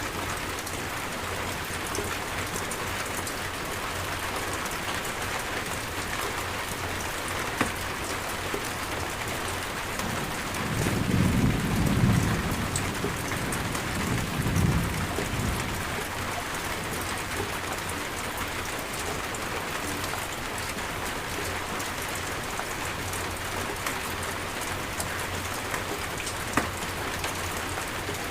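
Steady rain falling, with a low rumble of thunder rolling in about ten seconds in and a second, shorter rumble a couple of seconds later. A few single drops strike sharply.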